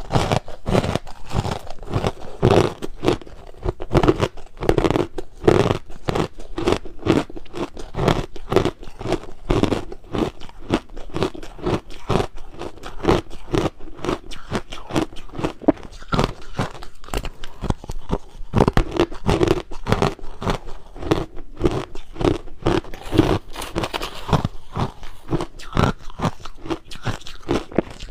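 Crushed ice being bitten and chewed: a steady run of crisp crunches, a few a second.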